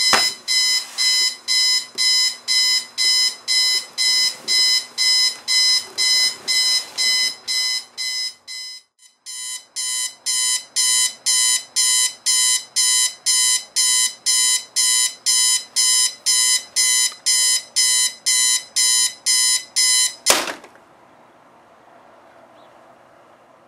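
Electronic alarm clock beeping, about two beeps a second. It breaks off briefly about nine seconds in, then resumes until a sharp knock about twenty seconds in cuts it off.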